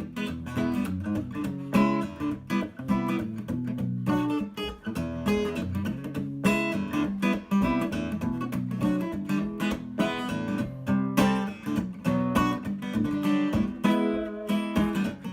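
Acoustic guitar playing an instrumental introduction, picked notes mixed with strummed chords in a quick rhythm.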